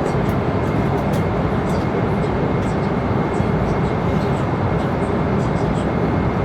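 Steady cabin noise of an airliner in flight, the even rush of jet engines and airflow heard from a passenger seat, with a faint steady high tone above it and a few faint light ticks.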